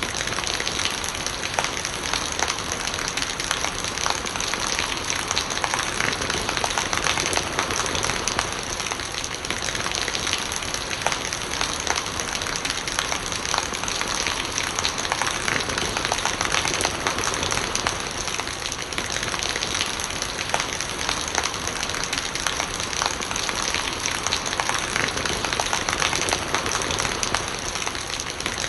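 Steady rain with a dense patter of drops striking close surfaces, running on without change.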